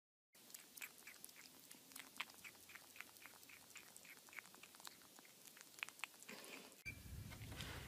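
Faint, quick clicks of a kitten chewing and biting at the rim of an orange plastic dish, about three or four a second. Near the end the clicks stop and a low steady hum takes over.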